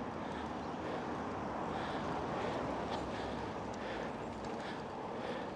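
Steady wind and rolling noise from riding a bicycle along a street, with a few faint clicks.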